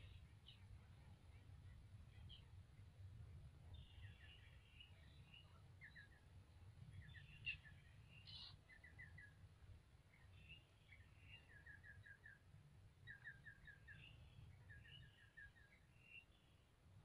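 Faint bird calls: scattered high chirps and short runs of four or five quick repeated notes, over a low steady rumble, with one brief click about halfway through.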